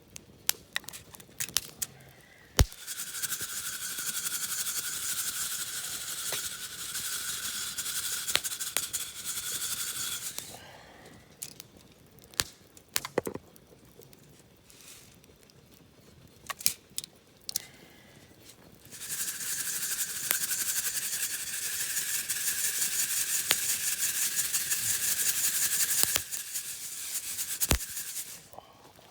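Coffee beans rattling in a hand-held mesh roasting net shaken over a campfire, in two long spells of fast, dense rattling. Between the spells, scattered sharp crackles and pops.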